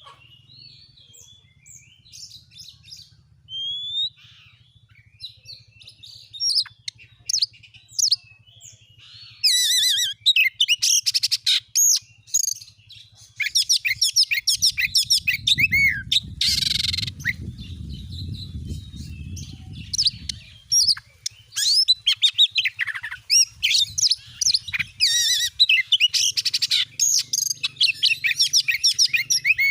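Oriental magpie-robin (kacer) singing a varied run of whistles and chirps. The song is sparse for the first several seconds, then fast and continuous from about ten seconds in. A low rumble runs for a few seconds in the middle, over a faint steady hum.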